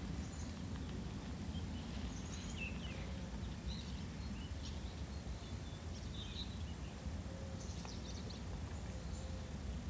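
Faint birds chirping, short calls scattered every second or two, over a steady low background rumble.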